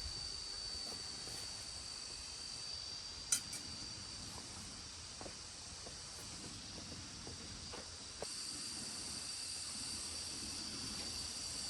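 Steady, shrill insect chorus: a continuous high-pitched drone with a hiss above it. A single sharp click comes about three seconds in and a few faint taps follow; after a small knock just past eight seconds the drone is slightly louder.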